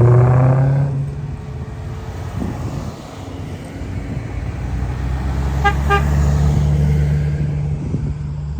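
Car engines running with a low rumble, loudest at the start, fading, then building again from about four seconds in. Two quick car-horn toots sound close together about six seconds in.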